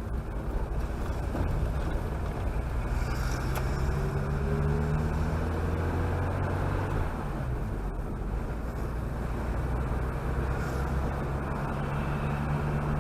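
Chevrolet Chevette's engine running steadily while the car is driven. Its pitch rises for a few seconds, then drops about seven seconds in.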